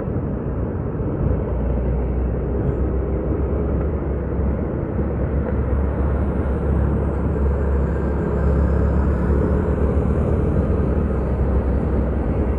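Steady road and wind noise on a moving motorcycle, a heavy low rumble with an even rush over it.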